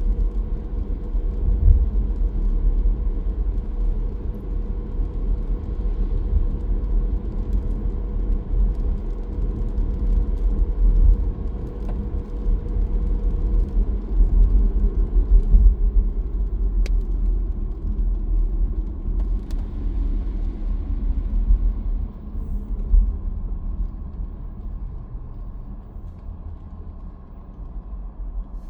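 A car's steady road and engine rumble while driving on a rainy road. A steady hum sits over the rumble and fades and drops lower about halfway through, as if the car is slowing. The whole sound grows quieter near the end.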